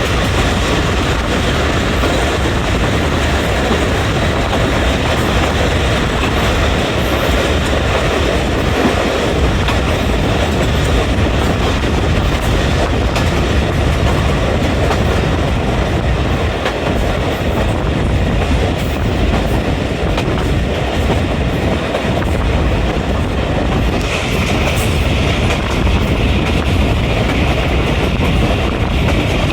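Passenger train running steadily along the track at speed, a continuous loud noise of wheels on rails.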